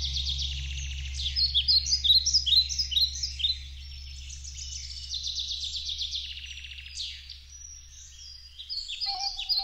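Birds singing, with rapid trilled and chirping phrases that are loudest in the first half, over a low steady drone. Near the end a held musical tone comes in.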